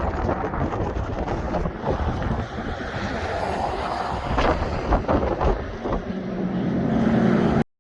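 Strong wind buffeting the microphone over the noise of traffic passing on a highway bridge. A low engine hum builds near the end, then the sound cuts off suddenly.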